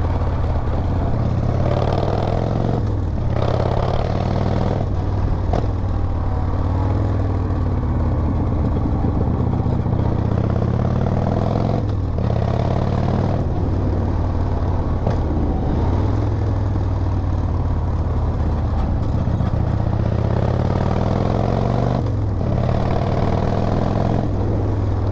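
Harley-Davidson V-twin motorcycle engine running under way. Its pitch climbs as it pulls, with short dips at the gear changes several times.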